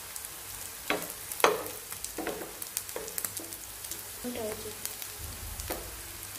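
Potato patties shallow-frying in hot oil: a steady sizzle with fine crackling pops. A spatula knocks against the non-stick pan several times, the loudest about a second and a half in, and scrapes briefly about four seconds in as it moves the patties.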